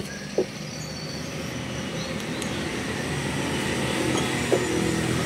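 Daihatsu Gran Max 1.5's four-cylinder engine idling cold just after start-up, heard from the driver's seat. It is a steady, even running that grows slowly louder.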